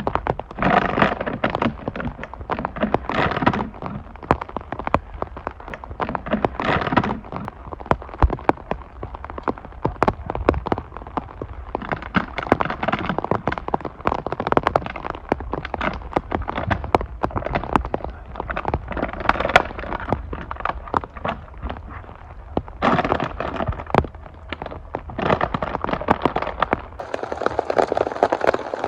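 Wood fire crackling, with many sharp pops and snaps over a steady low rumble. Near the end the rumble drops away and a steady hiss, like rain, takes over.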